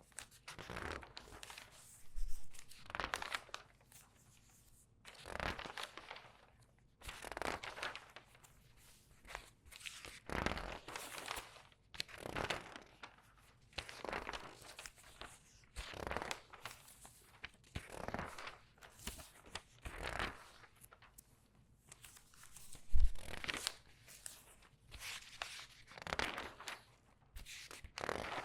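Newspaper pages turned quickly one after another, each turn a crisp rustle and crinkle of newsprint as the sheets are handled and squeezed, about one every one to two seconds. A single short thump about three quarters of the way through is the loudest sound.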